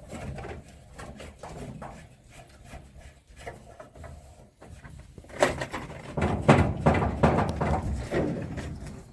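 Irregular knocks, clicks and rattles of parts being handled, busiest and loudest in a stretch from about halfway through until near the end.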